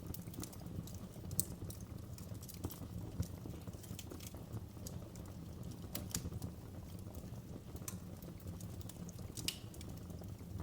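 Wood fire burning in a fireplace: a low steady rumble of flames with irregular crackling and a few sharper pops.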